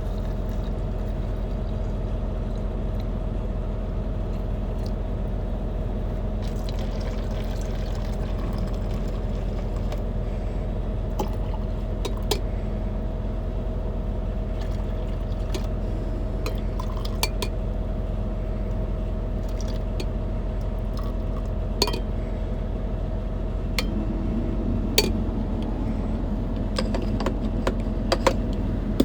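Coffee being mixed and poured: scattered clinks of a spoon or utensil against a cup and a liquid filling sound near the end, over a steady low hum.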